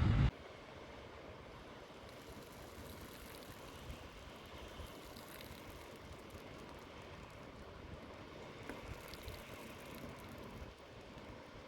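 Steady faint hiss of outdoor ambience, with a few faint ticks.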